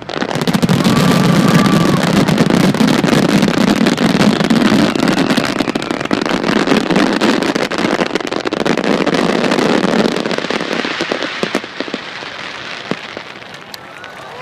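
Fireworks finale barrage: many shells bursting together in a dense, continuous crackling. It eases off after about eleven seconds into scattered single cracks.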